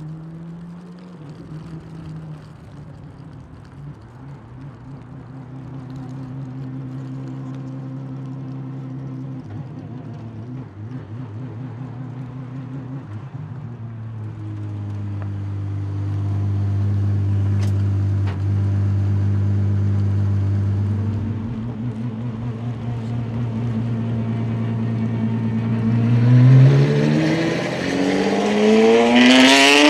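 Apollo Intensa Emozione hypercar's naturally aspirated V12 running at low revs with a steady note that slowly grows louder. Near the end it pulls away hard, the revs climbing steeply.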